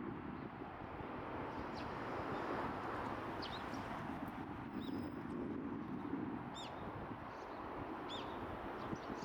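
Small songbirds give short, high chirps every second or two. They sound over a steady background rumble.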